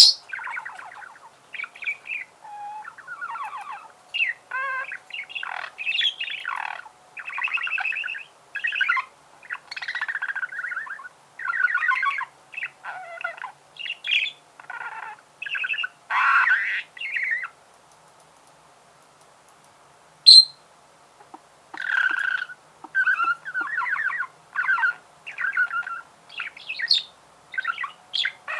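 Budgerigar warbling and chattering: a rapid run of chirps, clicks and squawks. Past the middle it pauses for about three seconds, gives one sharp high chirp, then goes on chattering.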